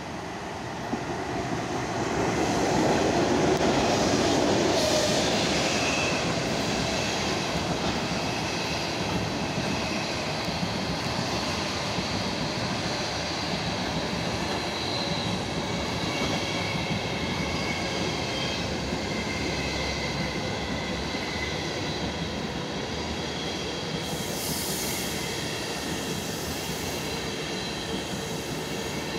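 A ChS8 electric locomotive passes close by, loudest a few seconds in, followed by a long train of passenger coaches rolling past with a steady rumble of wheels on rails. From about halfway through, several high squealing tones ring out as brake shoes bear on the wheels during a running brake test, and there is a brief hiss near the end.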